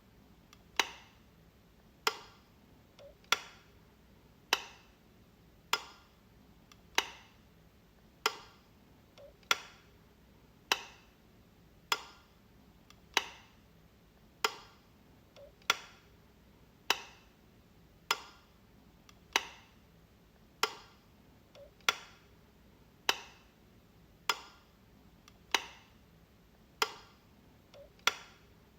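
Light switch being flicked over and over, one sharp click a little more than once a second at an even pace. A few clicks come with a faint softer click just before them.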